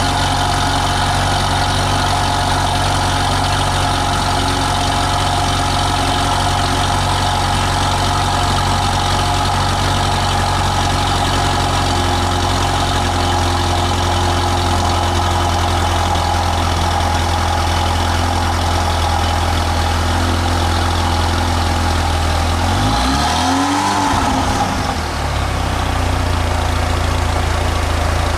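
Saturn Sky Redline's turbocharged 2.0-litre LNF four-cylinder idling through its stock exhaust and catless downpipe. Its idle note shifts lower about twelve seconds in. About 23 seconds in there is one quick rev that rises and falls back to idle.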